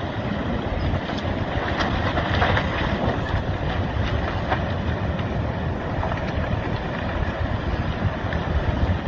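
Landslide of earth and debris sliding into the sea: a steady deep rumble with scattered cracks and crackles, thickest in the first few seconds.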